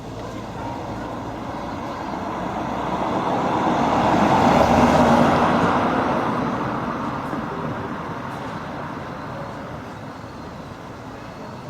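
A road vehicle passing by, building steadily to its loudest about five seconds in and then fading away.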